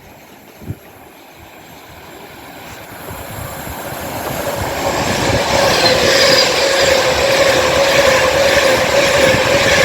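Class 390 Pendolino electric train approaching and running through the station, growing louder over about four seconds, then passing loud and steady with a steady whine over the rush of wheels on rail.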